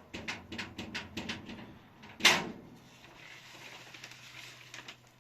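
A quick run of sharp knocks and clatters, then one loud bang a little over two seconds in.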